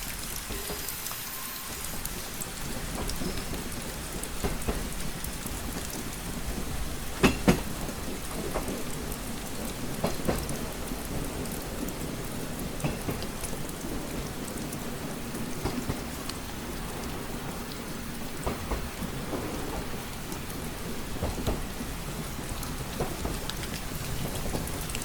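Steady rain pattering against a train window, with scattered sharp drip ticks over a low rumble; a louder pair of ticks comes about seven seconds in.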